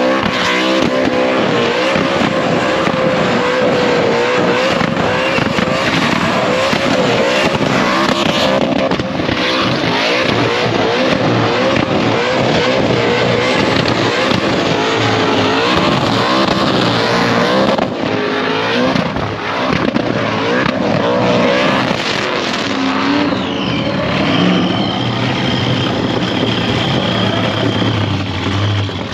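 Supercharged skid-car engine held at high revs through a burnout, its pitch bobbing up and down. About three-quarters of the way in the revs come down and a steady high whine sounds over a lower engine note.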